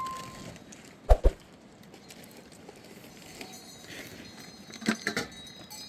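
A ringing chime tone dies away at the start, then mostly quiet background with two short dull knocks about a second in and a few sharp clicks near the end.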